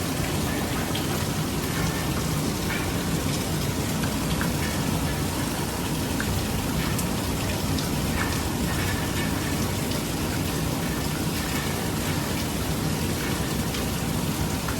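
Heavy rain falling steadily, with a dense patter of drops on surfaces.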